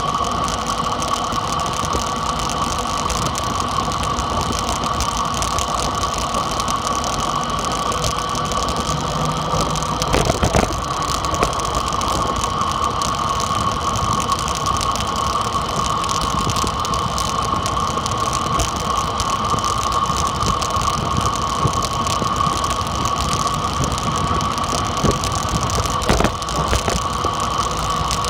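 Dirt bike being ridden at a steady pace: engine and drivetrain running with a constant high whine and no revving. A brief knock about ten seconds in, and another near the end.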